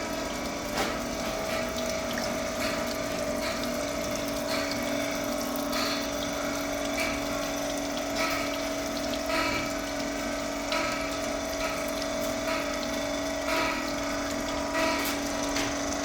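Milling machine for mixer grinder shafts running, with a steady two-tone motor hum. Short cutting or indexing sounds recur about once a second.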